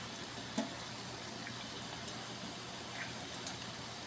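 Asado sauce simmering in a pot, a steady hiss with a few light clicks and knocks of kitchen utensils: one about half a second in and two more near the end.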